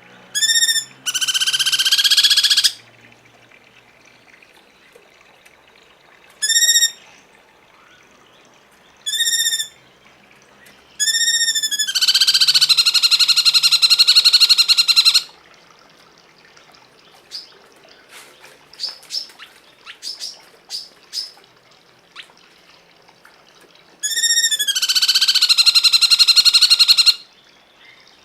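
Recorded bird calls used for song training: short arching notes that rise and fall, and three long, harsh calls lasting a second and a half to three seconds each, near the start, about twelve seconds in and about twenty-four seconds in. Between the last two long calls there is a run of thin, high chips.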